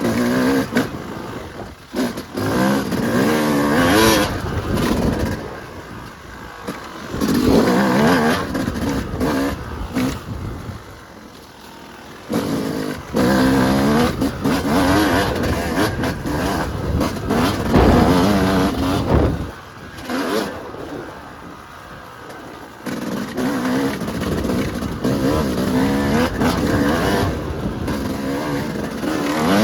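Yamaha YZ250 two-stroke single-cylinder dirt bike engine revving up under hard throttle and backing off, again and again, its pitch climbing and dropping through the gears, with quieter stretches between the bursts.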